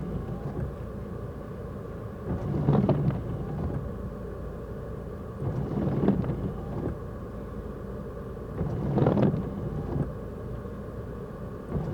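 Off-road truck driving on a snowy trail: a steady low rumble of engine and tyres that swells louder three times.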